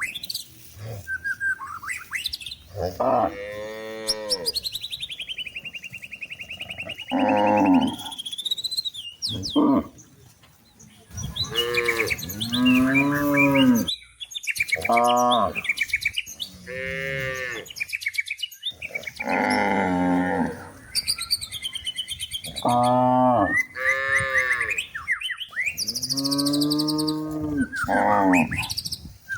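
Cows mooing again and again, about ten drawn-out calls, some overlapping, with birds chirping in the background.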